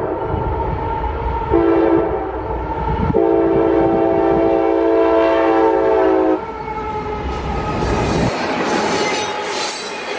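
Freight diesel locomotive's air horn sounding for a grade crossing: the tail of one blast, a shorter blast, then a long blast that cuts off about six seconds in, over the heavy rumble of the lead locomotives passing close. The engine rumble drops away about eight seconds in, leaving the rushing noise of tank-car wheels running on the rails.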